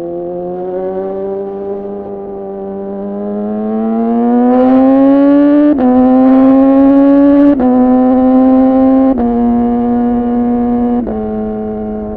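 2014 Yamaha R6 inline-four through an R9 titanium muffler and Leovince header, pulling hard with the pitch rising and getting louder, then upshifting four times. Each shift is a sharp, momentary cut in the exhaust note, typical of a clutchless quickshifter, before the pitch settles lower and holds steady.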